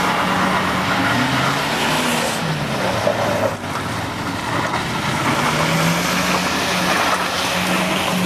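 Car engine revving under load in sand dunes, its pitch rising and falling over a steady rush of noise, with a brief drop about three and a half seconds in.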